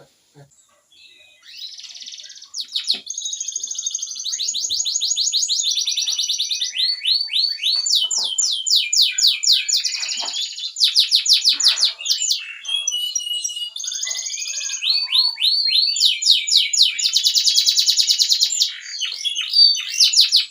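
Domestic canary singing a long, loud song of fast trills and rolls, each phrase a rapid run of repeated notes before switching to the next. The song starts about a second and a half in and carries on almost without a break.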